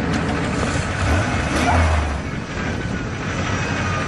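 Engines of a 1988 Chevy V8 pickup and a 1992 Dodge Caravan minivan idling. A deeper engine rumble swells for about a second, starting about a second in.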